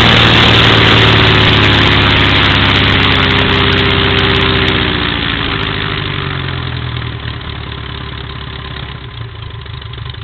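Continental O-200 four-cylinder air-cooled aircraft engine running with its propeller on a ground run-up. It gets steadily quieter from about five seconds in and settles to a lower, steadier run, as at idle.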